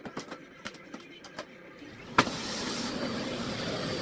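Small handling clicks and knocks on a Miele Blizzard CX1 bagless vacuum cleaner, then a sharp click about two seconds in as its motor switches on and runs with a steady rushing of air.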